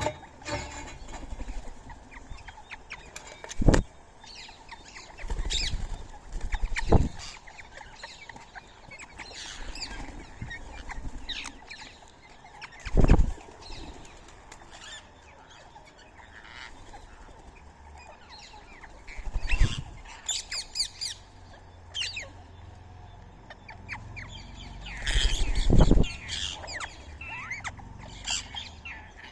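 Birds calling with short chirps and squawks throughout, broken by about six loud, sudden flurries of wing-flapping as birds fly in and out.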